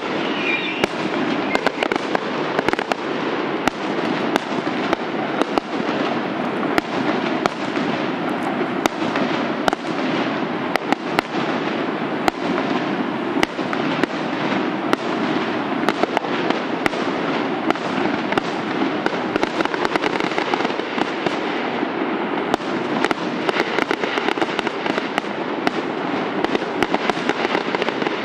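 Fireworks going off in a continuous dense crackle of many sharp pops and small bangs, with no pause.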